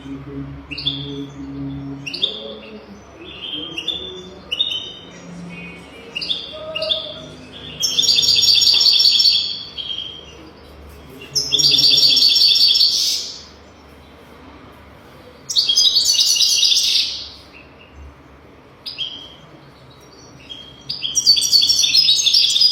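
European goldfinch singing: short twittering chirps between four longer, louder runs of fast trilled song spaced a few seconds apart.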